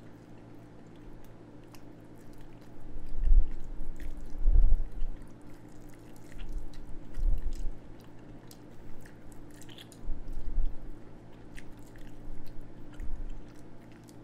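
A person chewing a bite of BBQ-glazed chicken wing, with soft irregular mouth thuds and small wet clicks. A steady low hum runs underneath.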